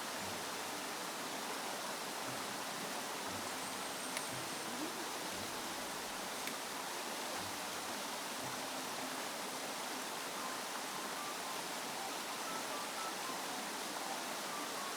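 Steady rushing of a mountain stream, an even hiss at a constant level, with a couple of faint ticks.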